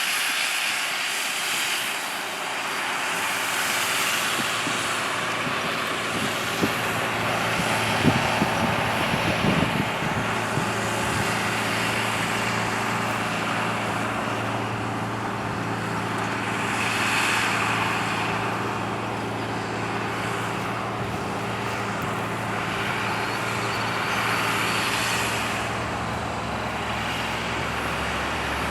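John Deere 8300 tractor's six-cylinder diesel engine running steadily under the load of cultivating, rising and falling a little in loudness. A few sharp knocks come between about seven and ten seconds in.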